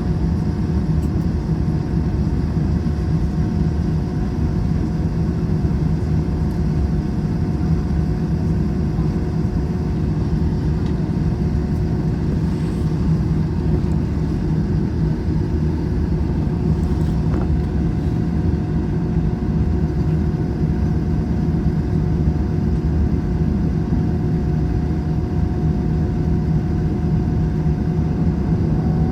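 Steady drone of an Airbus A321's engines and cabin air, heard inside the passenger cabin, with a few steady hum tones; one tone rises slightly near the end.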